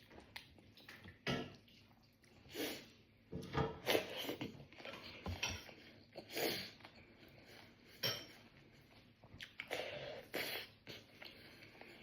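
Eating from a plate of rice and dal: scattered short clinks and scrapes against the dish, about a dozen over the stretch, louder around the middle.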